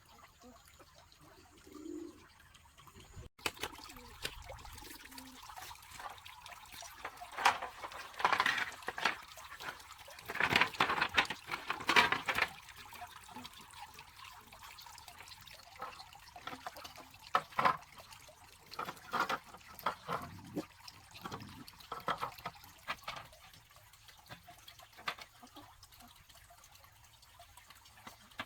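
Water splashing and trickling in irregular bursts, loudest in a cluster a third of the way in.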